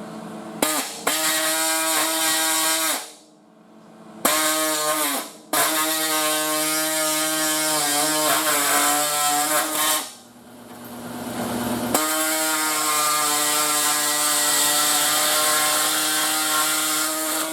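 A small handheld power saw cutting car-body sheet metal, run in four bursts with short pauses between. Each burst climbs quickly to a steady high whine with a hiss.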